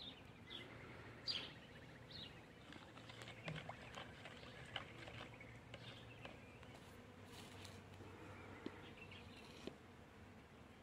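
Faint bird chirps repeating through the first two seconds or so, then scattered light clicks and taps of kitchenware being handled.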